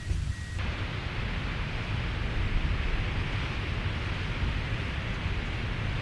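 Steady rushing outdoor noise with no distinct events, starting abruptly about half a second in.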